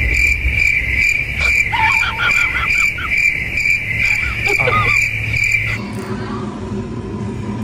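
Cricket-like chirring: a steady high trill pulsing about three times a second, with a few short squeaky glides over it. It stops abruptly about six seconds in, leaving a low hum.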